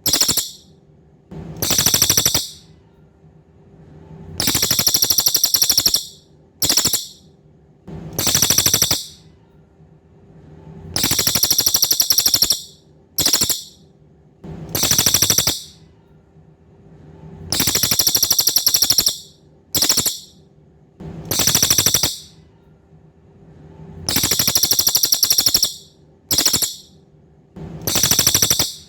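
Cililin songbird calling: loud, very high, buzzy trilled phrases repeated every couple of seconds in a regular cycle of one long, one short and one medium phrase, over a faint steady hum.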